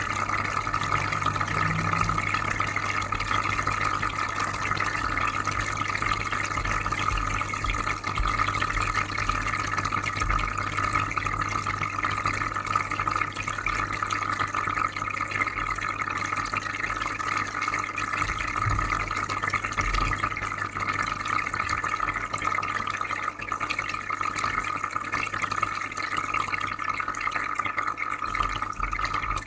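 Aquarium filter running: a steady low hum under continuous bubbling and trickling water.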